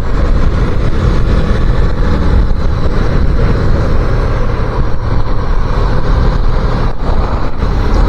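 250cc motorcycle being ridden at road speed: its engine runs steadily under a heavy rush of wind noise.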